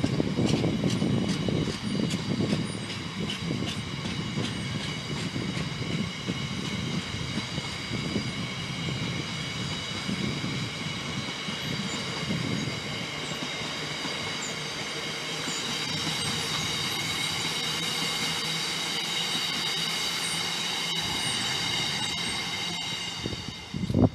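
A train moving through the station: a low rumble with some clicking, loudest at the start, under a steady high-pitched squeal of several tones that grows stronger in the second half. It cuts off suddenly at the end.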